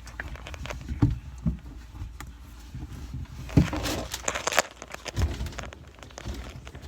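Handling noise from wiping down a fridge shelf: a cloth rubbing and a few knocks and bumps against the shelf.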